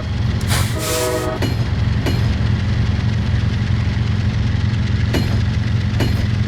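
Diesel locomotive running with a steady low engine drone as the train departs, with a short horn blast of under a second about half a second in. A few sharp clicks of wheels over rail joints come through the drone.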